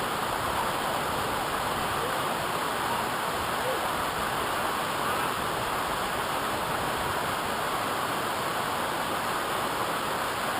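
Waterfall rushing: a steady, even roar of falling water with no let-up.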